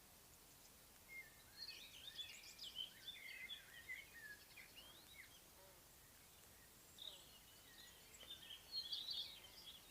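Songbirds singing in quick, varied, high chirps and warbles. The song starts about a second in, breaks off briefly after the middle, then picks up again and grows busier near the end.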